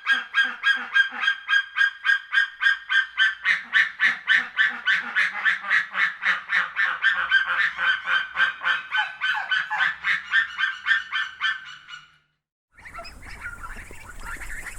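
Geese honking in a fast, steady run of calls, about four to five a second. The calls stop abruptly about twelve seconds in, and the last couple of seconds hold a steady hiss with faint animal calls.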